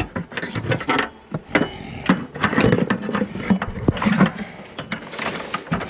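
Irregular clicks, knocks and scrapes of hand tools working on wooden siding and wall boards during a beehive cutout.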